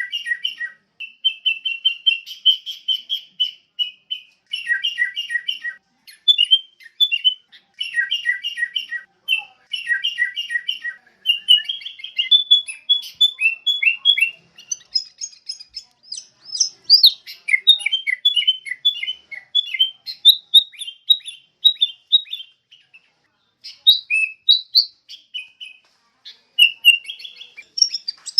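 Sooty-headed bulbul (kutilang) calling: phrases of quick, chattering chirps repeated one after another with short pauses between them.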